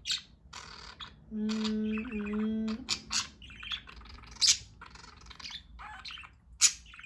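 Budgerigars chirping and chattering in short, high calls throughout. About a second in, a low steady hum lasts about a second and a half, louder than the chirps.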